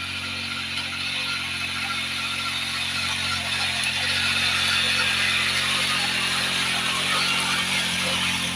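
Small four-stroke engine of a mini tiller (mini weeder) running steadily, growing somewhat louder in the middle.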